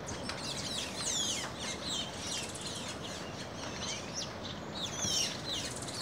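Several wild birds calling at once: many short, quick, falling chirps overlapping one another, over a steady background hiss.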